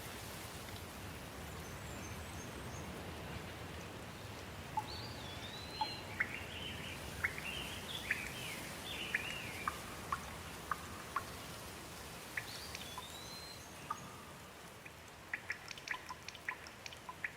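Steady rain with a bird calling in the middle: a run of short arching whistles and chirps. Near the end, sharp drips tick in quick succession.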